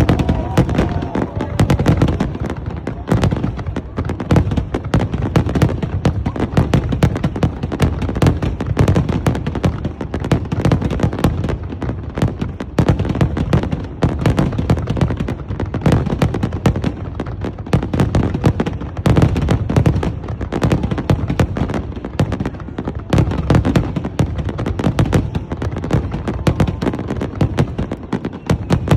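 Fireworks display: a dense, unbroken barrage of booming bursts and crackling reports, many shells going off in quick succession.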